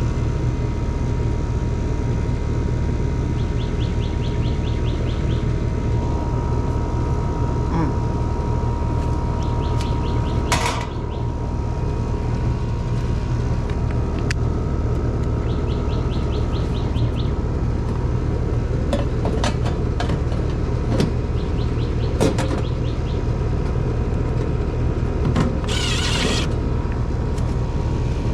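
Outdoor air-conditioner condenser unit running, a steady low hum from the compressor and fan. A few short high ticking trills sound over it, and a brief noisy burst comes near the end.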